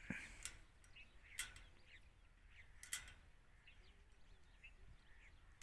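Faint, scattered bird chirps, with a few sharp ticks, the loudest about one and a half and three seconds in.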